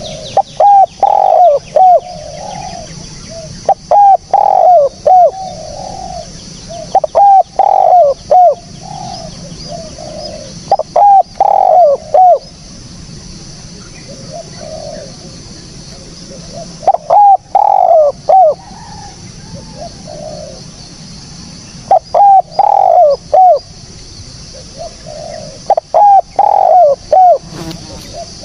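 Spotted dove (tekukur) cooing: loud phrases of several quick, clipped coos, repeated every few seconds with short pauses between, over a steady high-pitched hiss.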